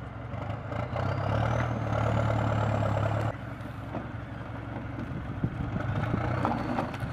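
Heavy tracked vehicle's engine running under load, louder for a couple of seconds and then dropping abruptly, with a high whine that rises twice. Scattered knocks and cracks, likely ice breaking up under the vehicle.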